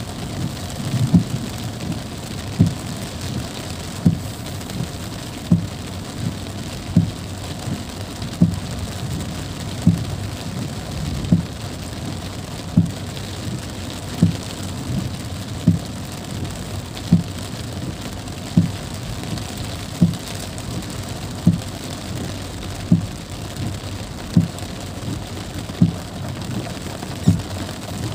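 Heavy rain drumming on a car's windscreen and roof, heard from inside the cabin, with the windscreen wipers thumping at each stroke about every second and a half.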